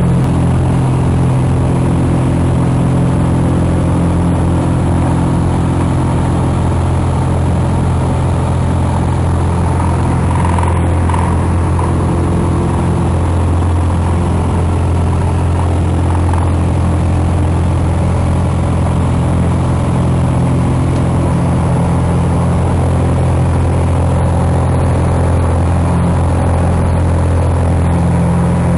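Piper Cherokee Six's six-cylinder Lycoming O-540 engine and propeller running with a steady, even drone that neither rises nor falls.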